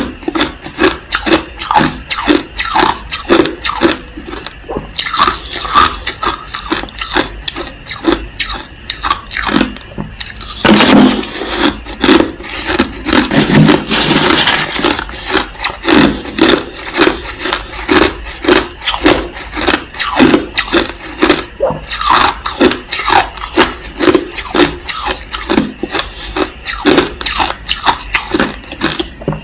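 A person chewing clear and white crushed ice close to the microphone: sharp crunches at about two to three a second. About ten seconds in there is a louder, continuous stretch of crackling crunching that lasts some four seconds before the steady chewing returns.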